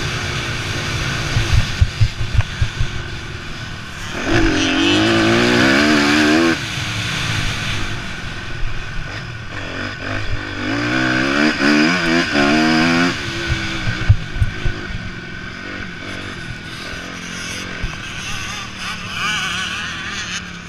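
Motocross bike engines revving hard, the pitch climbing and dropping through the gears, loudest in two runs about four and about ten seconds in, with lower engine sound between. Low thuds come in the first few seconds.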